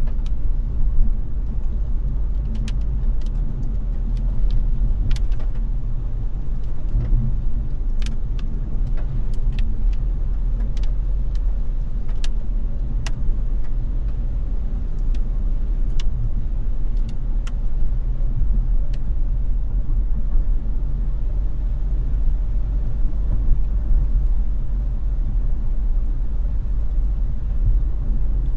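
Car driving in the rain: a steady low rumble of road and engine noise, with scattered sharp ticks of raindrops striking the car, frequent at first and thinning out after about two-thirds of the way through.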